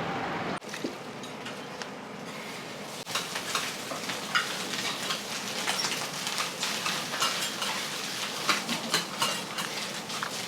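Food sizzling on a hot iron griddle while metal spatulas scrape and clack against the plate, the quick, busy clacking starting about three seconds in.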